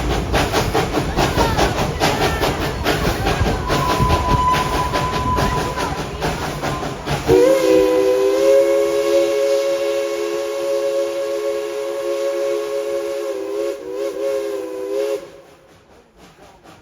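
Steam locomotive running with chuff and hiss, then its chime whistle blows one long blast of several steady notes together, about eight seconds, wavering briefly just before it cuts off.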